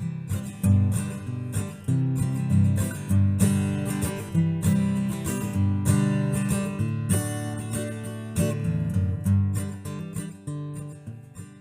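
Acoustic guitar strummed in a steady rhythm of ringing chords, dying away near the end.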